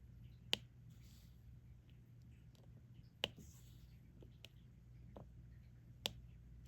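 Diamond painting drill pen tapping resin drills onto the sticky canvas: three sharp clicks about two and a half seconds apart, with fainter small ticks between. A low hum sits underneath.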